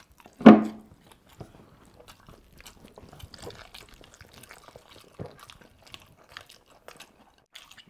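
Close mouth sounds of eating: chewing and lip-smacking with many small wet clicks as spicy penne pasta and roast chicken are eaten by hand. A short, loud vocal grunt comes about half a second in.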